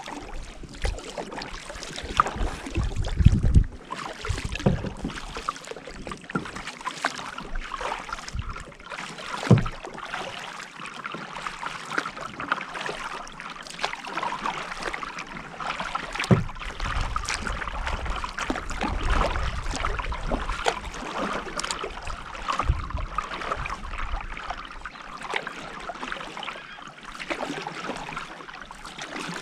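Water splashing and lapping around a kayak, with scattered small clicks and a few louder knocks against the boat.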